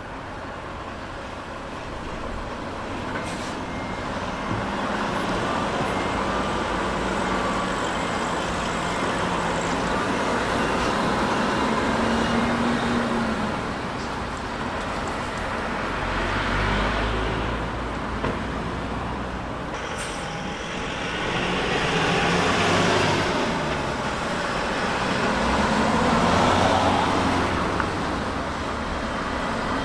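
Large semi-trailer truck engine running through a turn, over road traffic noise; the sound swells louder and fades several times as vehicles pass close.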